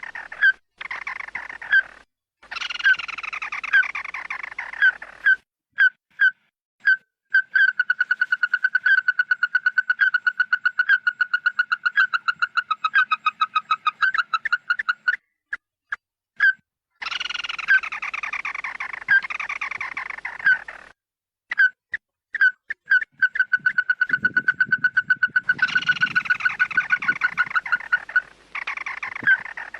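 Lure recording of the bird sold as 'chim mắt đỏ' (red-eyed bird) calling. Harsh calls that fall in pitch over two or three seconds alternate with long fast runs of short repeated notes, and the sequence repeats.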